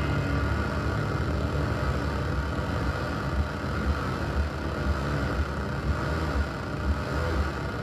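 Electronic synthesizer music: a rough, buzzing low saw-wave synth over a drone. In the second half a synthesized heartbeat adds regular thumps, about one every 0.7 seconds.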